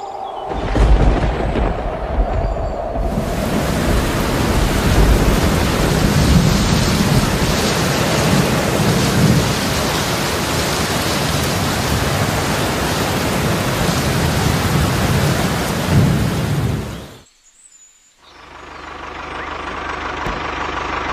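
Heavy rain with low rumbles of thunder, which cuts off suddenly about seventeen seconds in. After a brief hush, a steady motor hum fades in.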